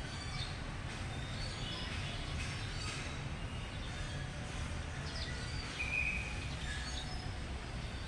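Outdoor ambience: a steady low rumble with scattered short high bird chirps, and a brief higher whistle about six seconds in.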